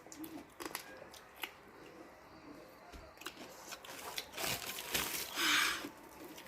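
Close-up eating sounds: chewing, biting and crunching into seafood salad, with short wet clicks and crackles. About five seconds in there is a louder rush of noise lasting about a second, like a slurp.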